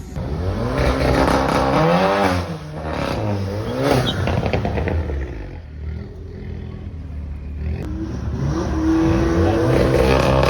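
Drag racing cars accelerating hard down the strip, the engine note climbing and dropping back several times as they shift up through the gears.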